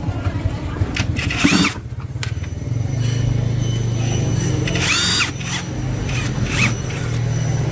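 A power tool's motor running steadily, with short high squealing whines about one and a half seconds in and again around five seconds.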